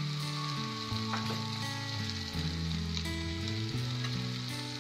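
Onion, tomato and spice masala sizzling steadily in a steel kadai, with a few faint clicks. Sustained low background-music notes, changing pitch every half second or so, run underneath.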